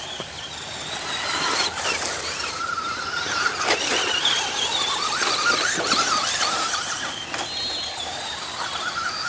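Radio-controlled stadium trucks racing: high motor and gear whine wavering up and down with the throttle, over tyre noise. A few sharp knocks come from landings.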